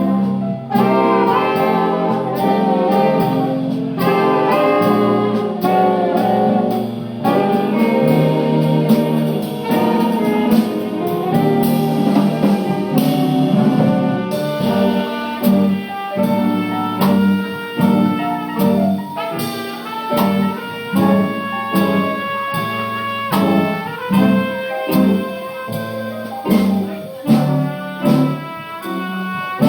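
Big band jazz playing, led by saxophones, trumpets and trombones over a steady swing beat.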